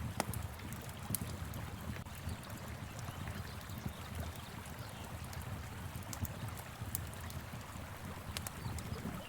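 Wood fire crackling, with a few sharp pops scattered through, over the steady rush of a flowing river.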